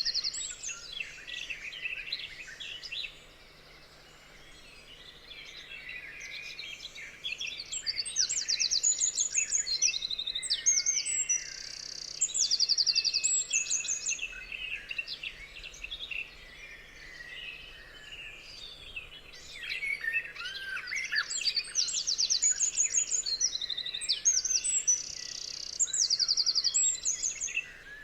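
Several songbirds singing together, a busy mix of chirps and fast repeated trills, easing off briefly about three seconds in before building again.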